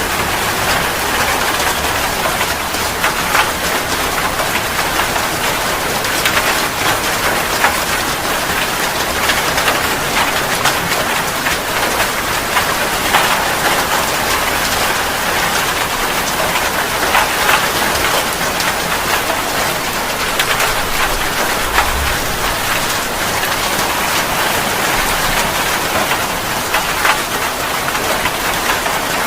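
Steady rain falling: a dense, even hiss with many sharper drop hits scattered through it.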